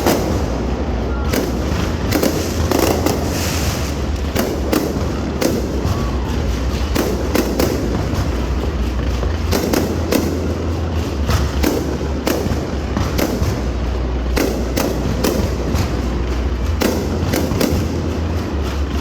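Fireworks display going off in quick, irregular succession: many sharp bangs and crackles over a continuous low rumble.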